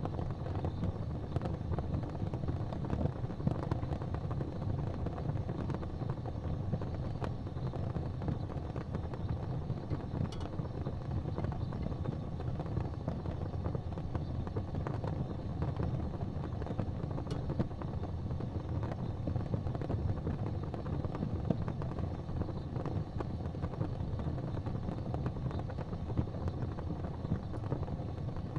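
Wood fire burning in a fireplace: a steady low rumble of flame with a few faint crackles.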